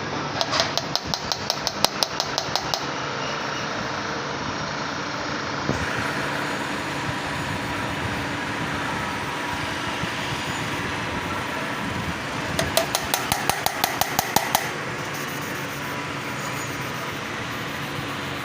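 A valve being lapped into its seat in an Isuzu 6HE1 diesel cylinder head with grinding compound: two spells of rapid, even clicking and tapping of metal on metal, about two seconds each, at the start and again about two-thirds of the way through, over a steady background noise.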